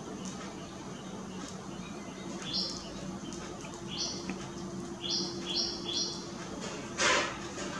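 Indian silverbills giving short, high chip calls: five calls, the last three in quick succession about five seconds in. A brief, loud noisy burst comes near the end.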